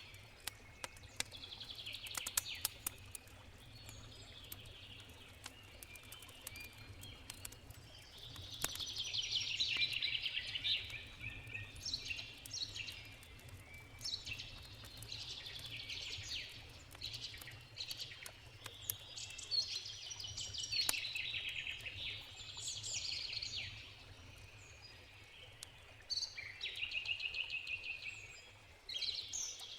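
Forest birds singing repeated trilled phrases every few seconds, over the scattered pops and crackles of a wood campfire. A steady low rush from a river runs underneath.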